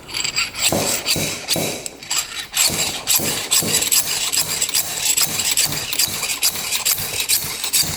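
Slide hammer being worked hard and fast on a stuck rocker-arm pin in a Yamaha 225DX cylinder head: the steel weight scraping along its shaft and knocking against its stop in rapid repeated strokes to pull the pin out.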